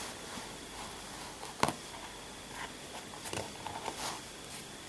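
Faint handling sounds of small objects being moved, with one sharp click about one and a half seconds in.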